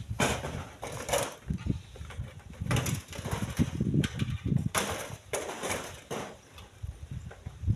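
Irregular clattering knocks of split stones being thrown into a truck's cargo bed, a few strokes every couple of seconds, over a low rumble.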